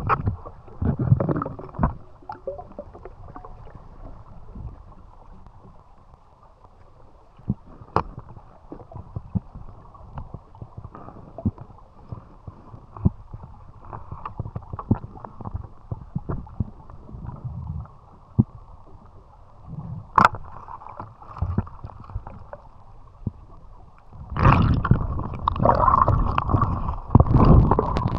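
Muffled underwater sound of someone swimming in a stream: dull water movement with scattered small clicks and knocks. About 24 seconds in it turns louder and clearer, with splashing and sloshing at the surface.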